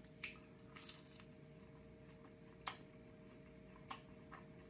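Near silence with a faint steady hum, broken by a few faint, irregular clicks from chewing a chicken nugget.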